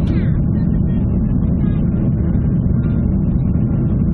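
Steady low rumble of a Ryanair Boeing 737's jet engines and airflow, heard from inside the passenger cabin.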